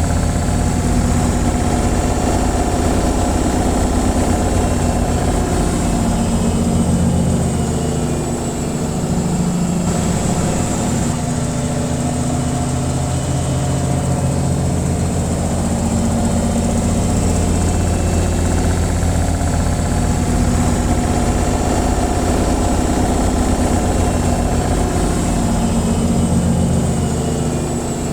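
Washing machine on its spin cycle: the drum spinning at speed with a steady, loud low hum and vibration, its pitch wavering slightly.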